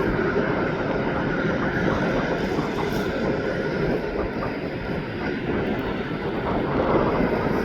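Jet airliner engines running, heard as a steady, even rumble of noise with no distinct tones.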